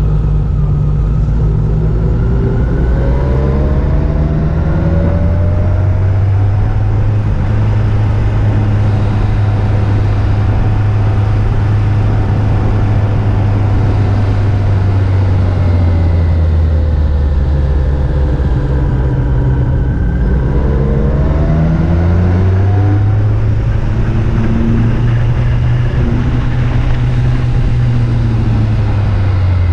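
Yamaha FJR1300's inline-four engine pulling along a mountain road, its note rising over the first few seconds, holding, dropping a little past the middle, then climbing again, over a steady rushing noise.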